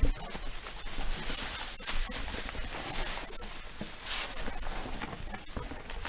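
Mountain bike clattering down a rough, rocky trail: tyres crunching over stones and the chain and frame rattling in many small, irregular knocks, with wind rumbling on the microphone.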